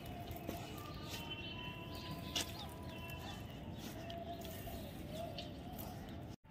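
Faint bird calls over a steady outdoor background hiss, with one sharp click a little over two seconds in; the sound drops out for a moment just before the end.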